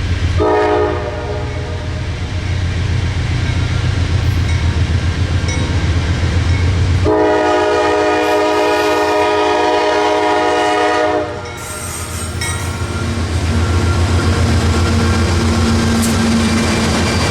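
Diesel freight locomotives' multi-chime air horn sounds a short blast near the start and then a long blast of about four seconds, over the steady low rumble of the locomotive engines. Later the engines and wheel clicks on the rail carry on as the train passes.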